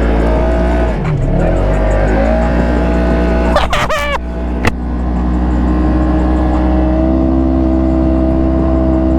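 Polaris RZR side-by-side engine running hard at high, mostly steady revs while the machine spins donuts in deep snow. The revs dip and climb back about a second in, and there is a brief burst of sharp noise around four seconds in.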